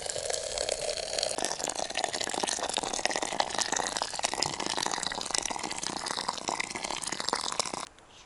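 Tea being poured from a kettle in a steady splashing stream for about eight seconds, stopping suddenly near the end.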